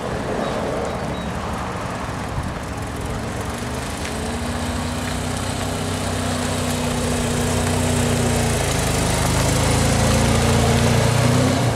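Vauxhall Chevette's four-cylinder engine running at low revs as the car rolls slowly past close by, growing louder as it nears, with a small change in the engine note about two-thirds of the way through.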